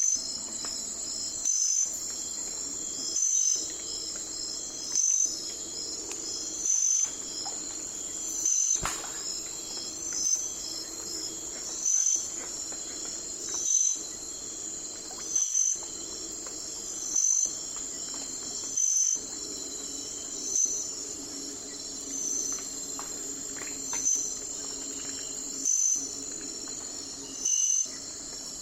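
Night insect chorus: a steady high-pitched trill, with a louder chirp repeating about every second and a half.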